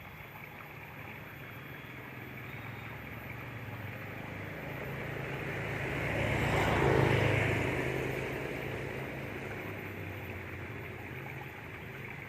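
Garengpung cicadas buzzing in a continuous drone. The sound swells to its loudest a little past halfway and then fades back.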